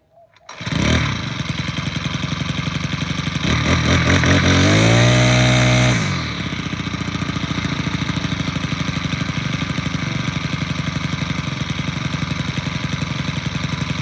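Troy-Bilt TB575 string trimmer engine on a cold start: it catches about half a second in, revs up with rising pitch around the middle of the first half, drops back about six seconds in, and settles into a steady idle.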